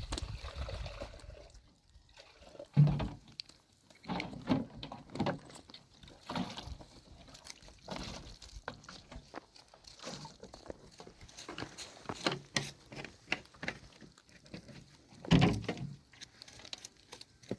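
Water being poured and sloshed, with irregular handling knocks and clicks and two louder thumps, one about three seconds in and one near the end.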